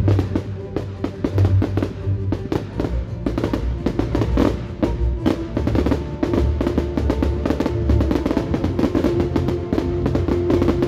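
Loud music with heavy drums, with fireworks going off thick and fast through it: a rapid run of bangs and crackles from shells bursting several at a time.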